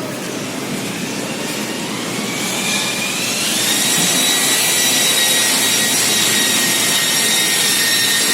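A machine's whine, likely an electric motor, that rises in pitch over a couple of seconds and then holds steady over a loud hiss.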